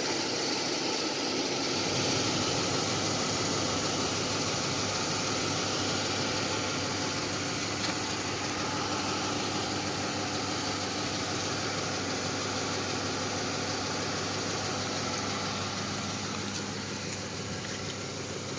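Steady mechanical running noise, an even hum and hiss with no breaks.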